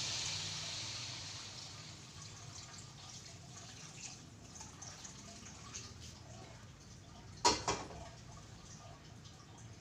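Kitchen sounds: a hiss fades away over the first couple of seconds, leaving faint scattered ticks, then two sharp knocks in quick succession about seven and a half seconds in.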